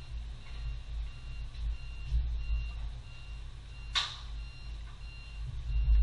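Low steady mechanical rumble with a faint high beep repeating a little faster than once a second, and one sharp knock about four seconds in.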